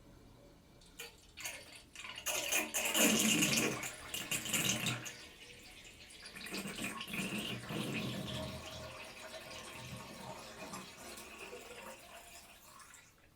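Bathtub drain gurgling as the last of the water empties: a few drips, then loud uneven gurgling, a short lull, a second gurgling run that fades out near the end.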